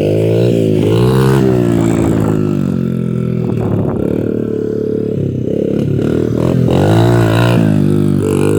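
Dirt bike engine running loud, its revs rising and falling several times as it is ridden.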